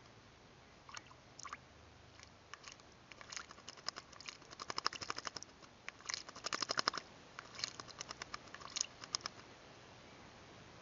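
A small bird bathing in a shallow water trough, beating its wings in the water: rapid pattering splashes in several bursts, the longest and loudest around the middle.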